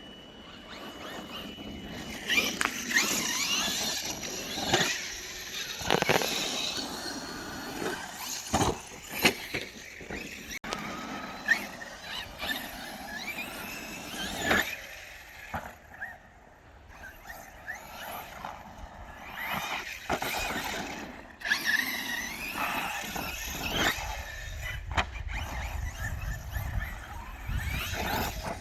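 Electric brushless 1/8-scale RC monster trucks running on dirt: high motor and gear whine rising and falling with the throttle, with several sharp knocks as the trucks land and hit the ground. A low rumble comes in near the end.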